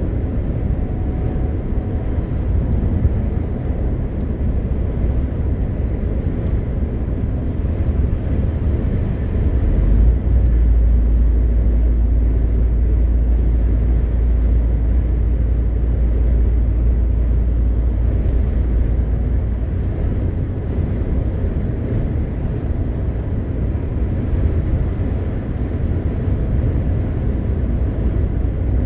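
MAN TGX 520 truck on the move: steady low rumble of its diesel engine mixed with road and tyre noise. A deeper drone grows stronger about ten seconds in and eases off around twenty seconds.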